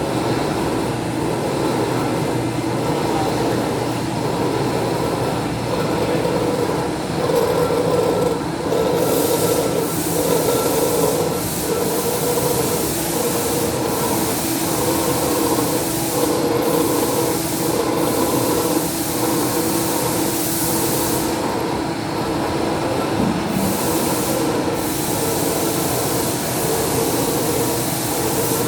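Machine tool running steadily with a hum that pulses about once a second, while metal pump parts are machined. From about nine seconds in, bursts of high hiss come and go.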